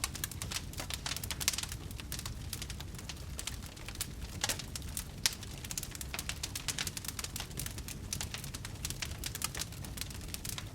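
Wood fire in a fireplace crackling: many irregular sharp pops and snaps over a low, steady rumble.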